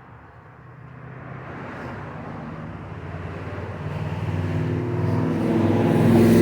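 A motor vehicle approaching: its engine and road noise grow steadily louder and are loudest at the end.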